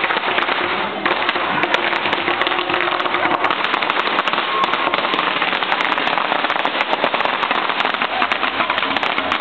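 Firecrackers crackling and popping in a dense, continuous rattle of small bangs.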